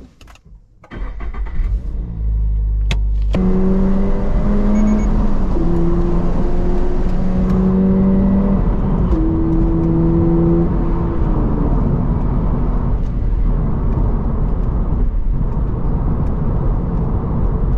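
Toyota GR86's 2.4-litre flat-four engine pulling the car along, with a steady low road and engine rumble. The engine note holds at a few steady pitches that step up and down, then eases off after about eleven seconds.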